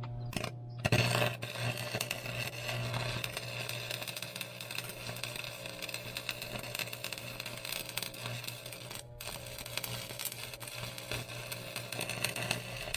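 Electric arc welding on the loader uprights: a steady crackle and sizzle of the arc over a low electrical hum, stopping for a moment about 9 seconds in before the bead goes on.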